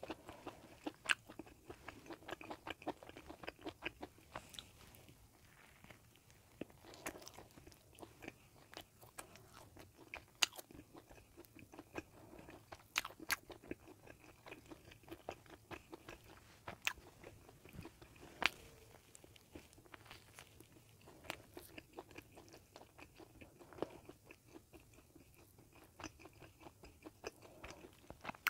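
Close-miked chewing and biting of a bagel sandwich: soft mouth sounds with many sharp clicks and smacks.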